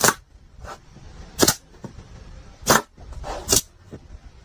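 A series of sharp knocks or impacts: four loud strikes about a second and a half apart, with a fainter one between the first two.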